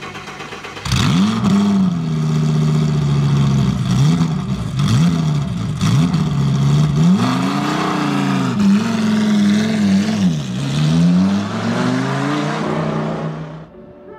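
Car engine revved repeatedly, its pitch climbing and dropping several times, then cutting off suddenly near the end.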